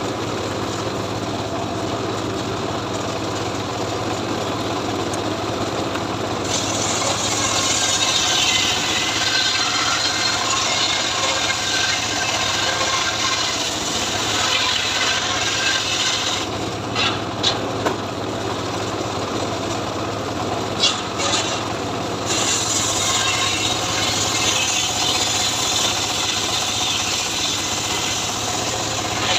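Homemade engine-driven srekel saw cutting teak wood. The engine runs steadily throughout, and the blade's hissing cut through the wood comes in from about six seconds in to about sixteen seconds, then again from about twenty-two seconds on. Between the two cuts the engine runs on alone, with a few sharp knocks.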